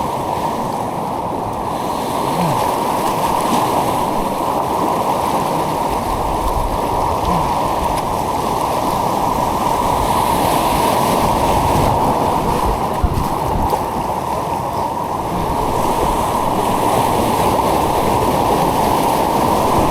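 Steady, dull rush of white water from the artificial rapids, loud and unbroken, with a single short knock about thirteen seconds in.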